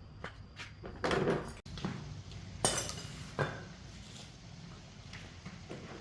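A handful of knocks and clinks from hard objects, tools or parts, being handled and set down. The loudest come about a second in and twice near the middle.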